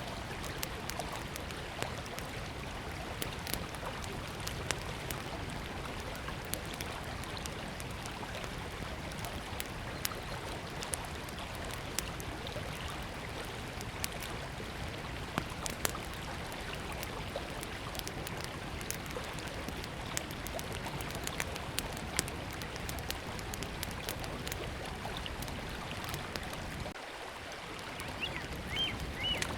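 River flowing steadily, with a small campfire crackling in frequent sharp pops over it. A bird chirps a few times near the end.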